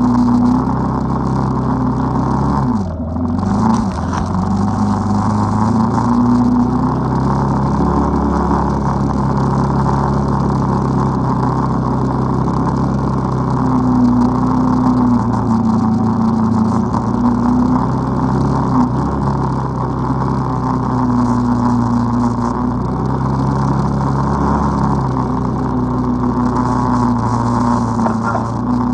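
ATV engine running under way, its pitch rising and falling with the throttle, with a brief let-off and drop about three seconds in.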